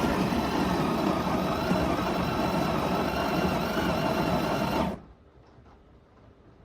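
Café Affetto automatic espresso machine's built-in grinder running, grinding beans for a shot, then cutting off suddenly about five seconds in.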